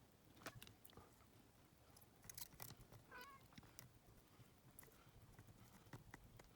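Quiet scattered clicks and taps of small parts being handled on a bench, with one short, wavering, high-pitched call about three seconds in.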